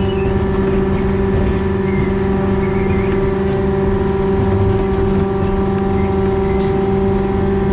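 Diesel engine of a narrow-gauge diesel-hydraulic locomotive running steadily under way, heard from the locomotive's cab: a constant droning hum at an even pitch over a rumbling running noise.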